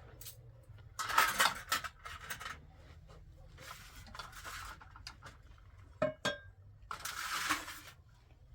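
Dishes and utensils being handled: three scraping bursts about a second long, and a sharp metallic clink, twice in quick succession, about six seconds in.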